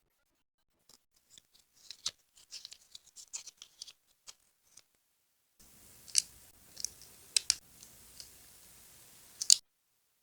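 Scissors cutting paper: a run of small snips and paper rustles, then after a short pause a handful of sharper, crisp snips over a faint hiss, the loudest near the end.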